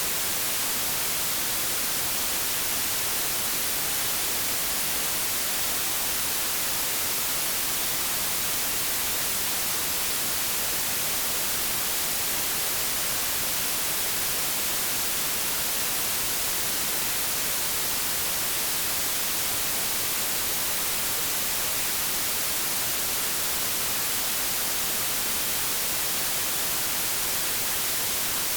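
Continuous white-noise static, an even, unchanging hiss with most of its energy in the high frequencies, like a TV or radio tuned between stations.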